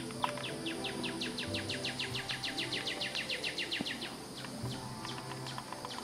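A bird singing a fast trill of repeated downslurred notes, about eight a second, lasting roughly three and a half seconds, over a steady high drone of insects.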